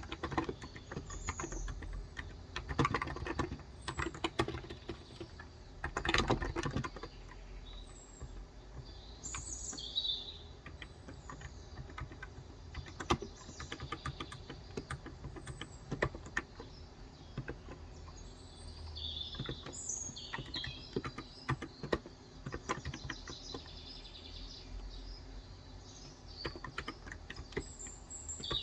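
Typing on a Cox Endeavour tenkeyless keyboard with 35g electro-capacitive (Topre-style) switches: irregular runs of soft keystrokes, densest in the first third. Small birds chirp and tweet outside in short calls, more of them in the second half.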